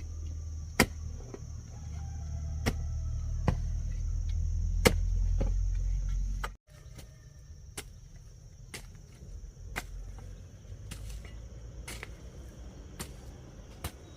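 Steady high insect chirring, with sharp clicks every second or so and a low rumble that builds and then cuts off suddenly about six and a half seconds in.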